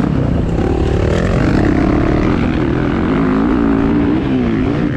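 Motocross dirt bike engines running hard, their pitch rising and falling as the throttle opens and closes, with more than one bike heard at once.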